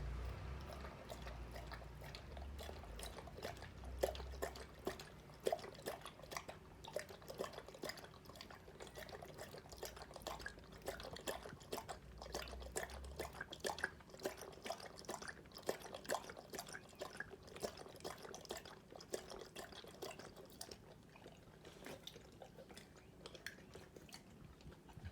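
Akita dog eating at its bowl: a fast, irregular run of faint wet clicks and smacks from its mouth, several a second, thinning out near the end.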